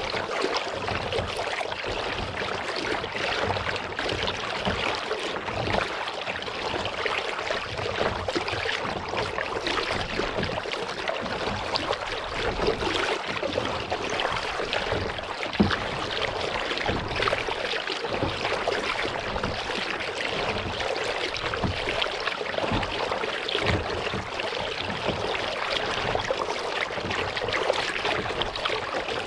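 Water splashing and trickling around a kayak on a lake, an even, restless wash with a single light knock about halfway through.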